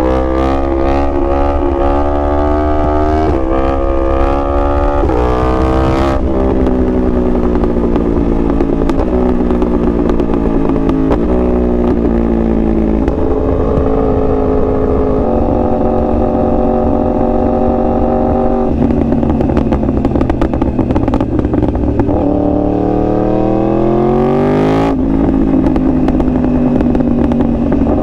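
2021 Yamaha R1's crossplane inline-four accelerating hard at full throttle through several quick upshifts, the pitch climbing and dropping back at each shift. It then winds down, the pitch falling in steps, before revving up through another hard pull and shift near the end.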